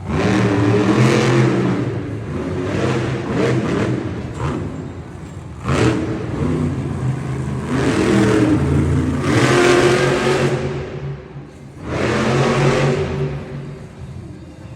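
Monster truck engines revving in repeated loud surges, rising and falling in pitch, with brief lulls between.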